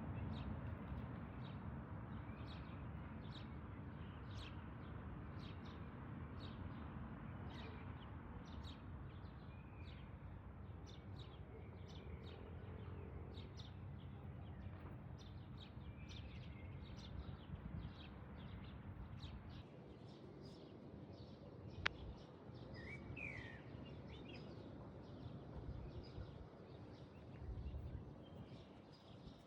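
Small birds chirping repeatedly over a steady low background noise, with a couple of longer gliding calls and one sharp click a little past two-thirds of the way through.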